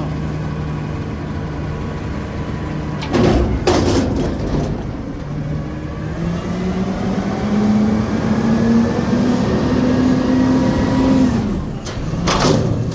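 Garbage truck engine idling, with two loud clanks a few seconds in, then revving up steadily for several seconds before dropping back, and another clank near the end.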